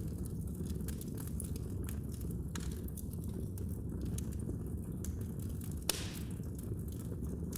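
Wood fire crackling in a fireplace: a steady low rumble of flames with scattered sharp pops and snaps, one louder pop about six seconds in.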